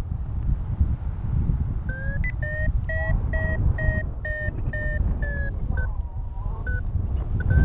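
Paragliding variometer beeping in quick short pulses, about three a second, starting about two seconds in with the pitch stepping slightly higher: the climb tone that signals the glider is rising in lift. Under it, steady wind rushing over the microphone.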